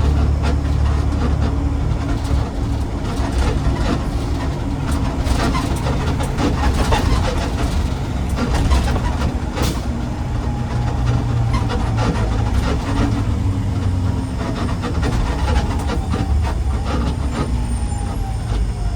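Garbage truck driving: a steady, heavy low engine drone with constant rattling and clatter over it.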